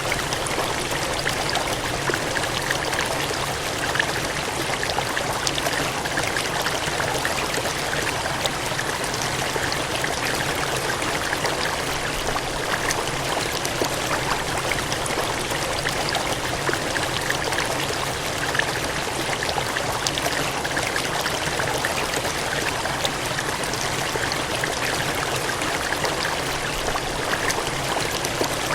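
Gushing, cascading water: a steady, even rush flecked with fine splashing.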